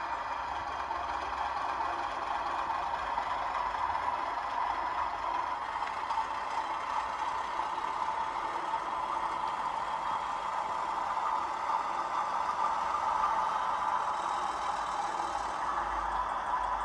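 DCC sound decoder in a 00 gauge Hornby Class 31 model locomotive playing a steady diesel engine sound through its small onboard speaker as the train runs.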